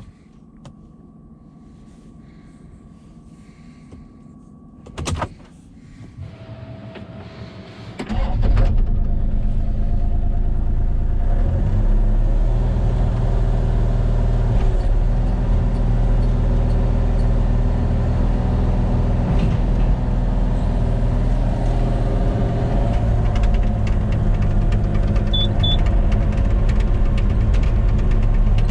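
A vehicle door shuts with a thud about five seconds in. About eight seconds in an engine starts and then runs steadily at idle, with a deep, even rumble.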